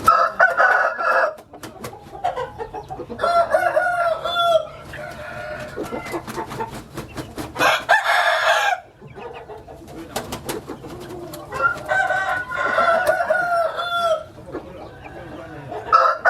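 Roosters crowing over and over, about five crows of a second or two each a few seconds apart, with clucking and short clicks between them.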